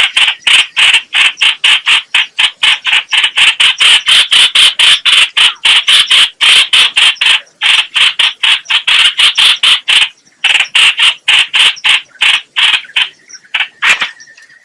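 Bulbul (the bird called trao trảo or hoành hoạch) giving a fast run of short harsh chattering calls, about four or five a second, with brief breaks, slowing and thinning out near the end.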